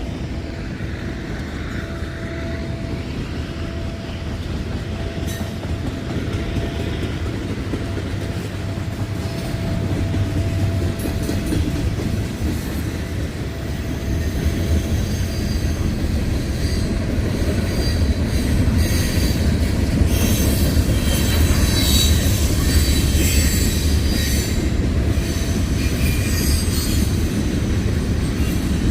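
Freight train rolling past at close range, a steady rumble of wheels on the rails that grows louder about halfway through. High thin wheel squeal rises over the rumble from about twenty seconds in.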